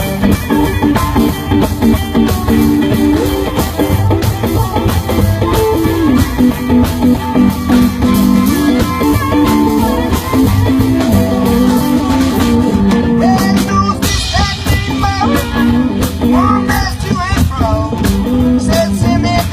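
Rockabilly band playing live: an instrumental passage with guitar over a steady drum beat.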